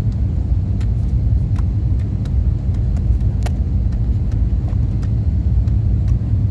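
Steady low rumble of engines and airflow inside the cabin of an Airbus A321-200 on final approach, with a few faint ticks.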